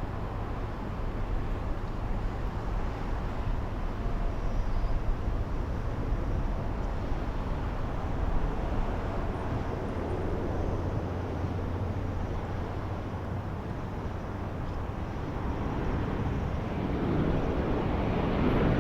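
Jet aircraft engines giving a steady, rumbling roar that grows louder near the end.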